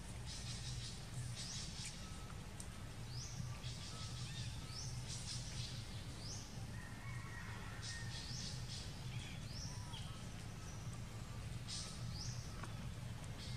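Outdoor ambience: a bird repeats a short, high, rising call every second or two over a steady low hum.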